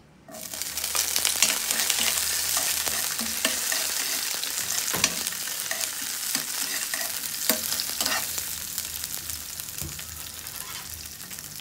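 Chopped red bell pepper sizzling in hot oil in a nonstick frying pan, with a utensil ticking and scraping against the pan as it is stirred. The sizzle starts suddenly just after the start as the pepper goes in, then slowly dies down.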